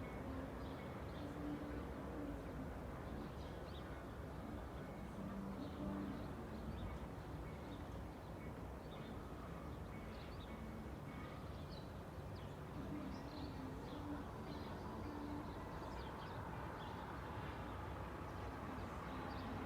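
Suburban outdoor ambience: a steady low rumble of distant road traffic, with small birds chirping on and off throughout.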